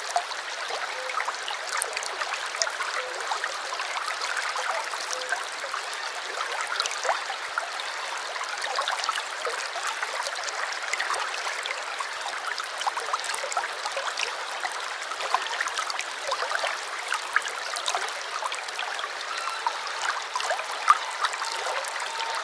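A small stream flowing steadily: an even rush of water with many small splashes and gurgles through it.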